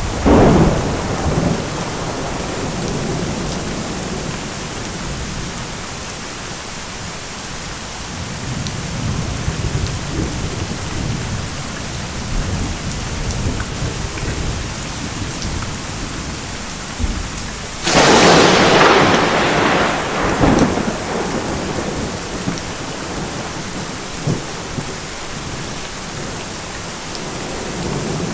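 Steady heavy rain with low rolling thunder. Two thunderclaps stand out: one sharp crack right at the start, and a much louder crash about eighteen seconds in that lasts a couple of seconds before rumbling off.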